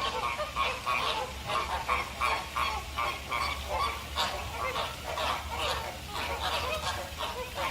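A flock of flamingos honking: many short calls overlapping in quick succession.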